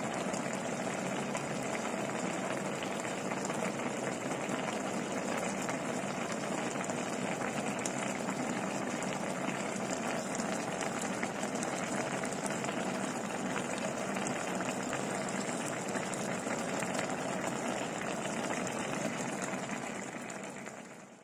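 Pot of laing, taro leaves in coconut milk, bubbling at a steady boil, fading out near the end.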